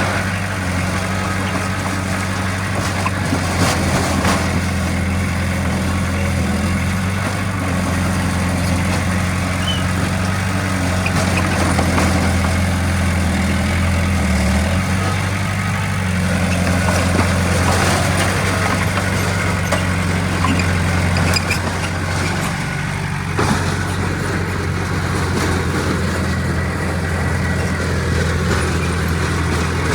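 Heavy diesel earthmoving machinery running steadily, its engine holding an even low drone, with a few short knocks and clanks.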